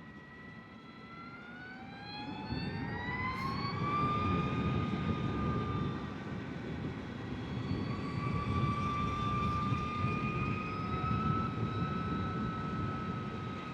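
Energica Experia electric motorcycle's motor and drivetrain whining. The whine rises in pitch as the bike accelerates a couple of seconds in, then holds fairly steady with a slight rise and fall, over a low rush of wind and road noise.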